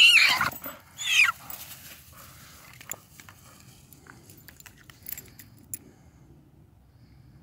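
A bird caught in a dog's jaws squawks loudly twice, each call falling in pitch, in the first second and a half. Then come faint rustling and scattered light clicks as the dog moves through tall grass.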